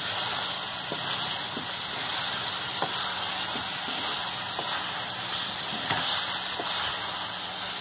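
Chicken and turnip pieces sizzling steadily as they fry in a steel pot, with light knocks of a wooden spoon stirring against the pot every second or so.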